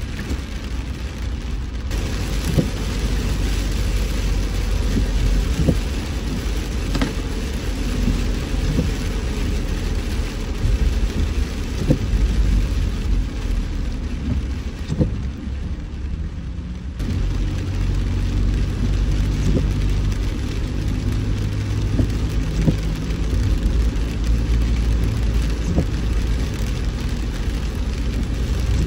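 Rain falling on a moving car, with steady road and engine rumble and scattered sharp taps of drops; the rain hiss thins briefly about halfway through.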